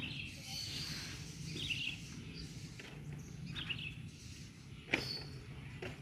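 Outdoor street ambience with a steady low hum, and a bird giving a short chirping call three times, about every two seconds. A sharp click sounds near the end.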